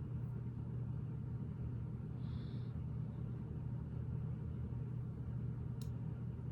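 A steady low hum runs throughout, with a brief faint hiss about two seconds in. A single light click of plastic Lego pieces comes near the end.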